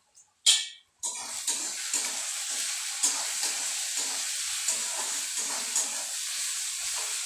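Onion, tomato and green chillies sizzling in hot oil in a metal kadai while a metal spatula stirs and scrapes them, the scrapes coming two or three times a second. A short loud burst of noise comes about half a second in, and the sizzling starts suddenly about a second in.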